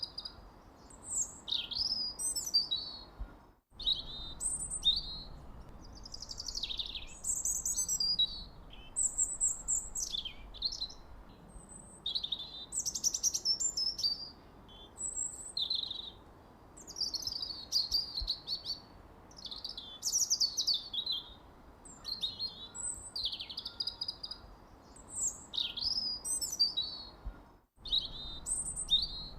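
Several songbirds chirping and singing continuously, a dense overlap of quick, high calls and short pitch glides over faint low background noise. The sound cuts out completely for a split second twice, about four seconds in and near the end.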